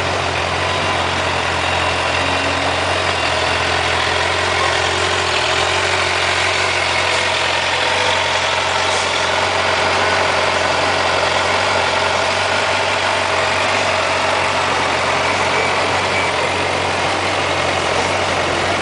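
Suzuki GSX-R750 inline-four motorcycle engine running steadily at an even speed, with no revving.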